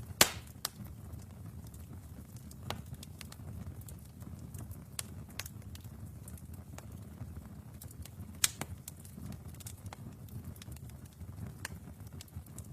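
Wood fire in a fireplace crackling: a low steady rumble with scattered sharp pops, the loudest right at the start and another about eight and a half seconds in.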